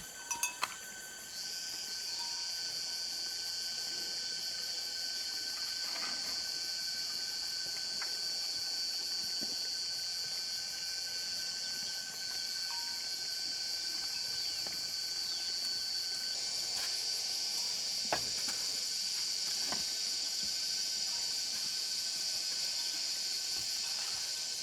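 Steady, high-pitched drone of insects calling, with a few brief clicks, the sharpest about 18 seconds in.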